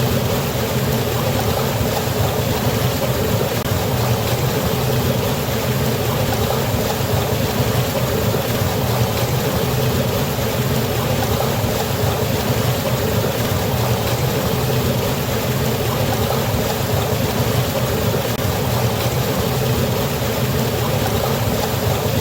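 Steady, unbroken rush of falling water, a continuous full roar with no changes.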